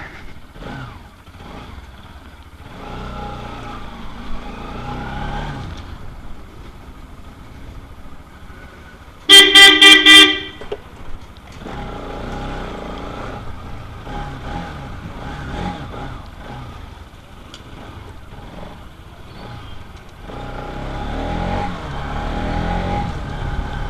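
Road traffic noise with the low, steady sound of engines, and a vehicle horn sounding in four quick toots about nine seconds in.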